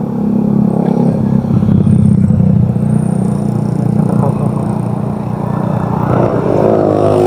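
Motorcycle engine running steadily while riding on the road. A second, higher sound with a wavering pitch joins near the end.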